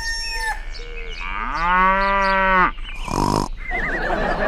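A cow moos once, a long call that rises at first and then holds for about a second and a half. Short chirping sounds come before it and a brief buzzy burst follows.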